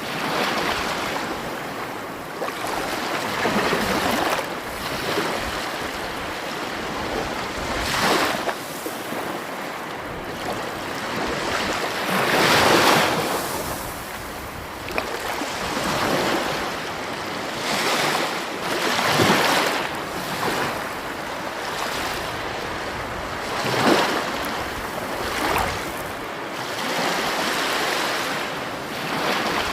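Sea waves breaking and washing ashore, swelling and easing every few seconds, with the biggest surge about twelve seconds in.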